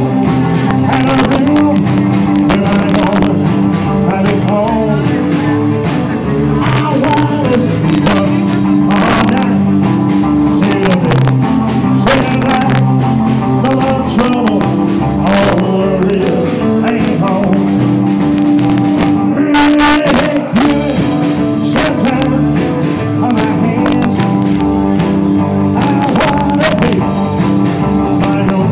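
Live rock and roll band playing loudly and steadily, with guitar and a regular beat.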